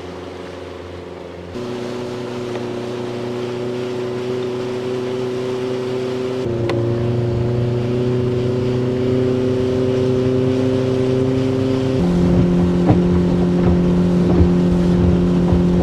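A small fishing boat's motor running under way, a steady drone whose pitch and loudness shift abruptly about one and a half, six and a half and twelve seconds in, growing louder overall.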